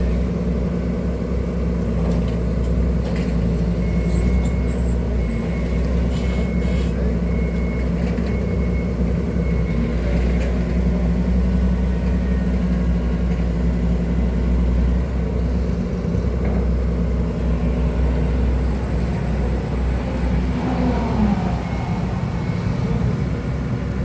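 Hydraulic excavator's diesel engine running steadily under load, with a faint high-pitched beep repeating in short pulses for several seconds.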